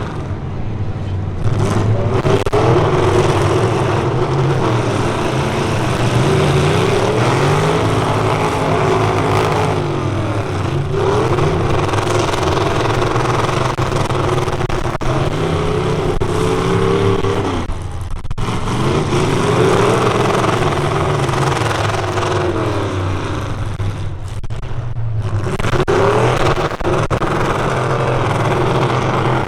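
Full-size pickup truck engines in a demolition derby heat, revving hard and dropping back again and again, the pitch climbing and falling every few seconds.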